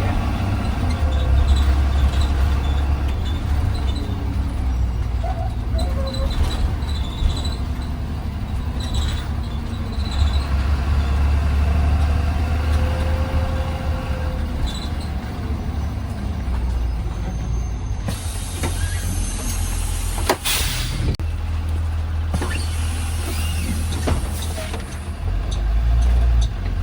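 Interior ride noise of a 2020 Blue Bird Vision school bus under way: a steady low engine and road rumble that swells and eases. Past the middle come two spells of hiss and one sharp crack.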